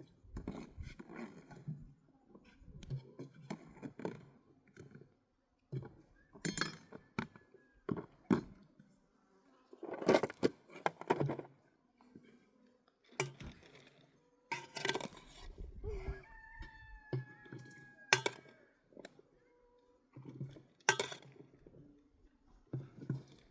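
Kitchenware clinking and knocking during food preparation: a series of separate knocks and clinks of dishes and utensils at irregular intervals.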